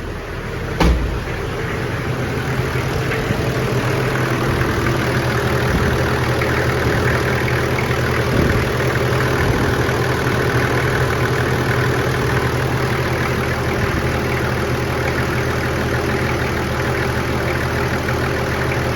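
Toyota 1HZ 4.2-litre inline-six diesel of a 1996 HZJ75 Land Cruiser idling steadily just after a cold start. A single sharp thump comes about a second in.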